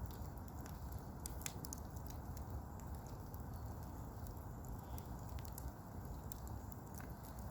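Campfire burning, wood crackling with sharp irregular pops over a steady low rumble.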